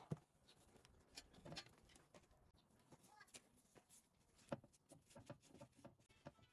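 Faint, irregular clicks and light knocks of tools and metal parts being handled, with a sharper knock just after the start and another about four and a half seconds in.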